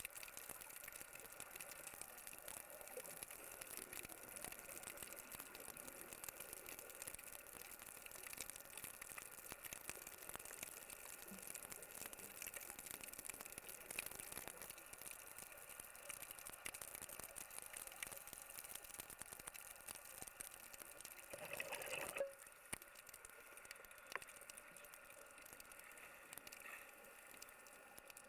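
Faint underwater ambience: a steady hiss with fine crackling and bubbling. A brief louder gush of bubbles comes a little past two-thirds of the way in, and the sound is quieter after it.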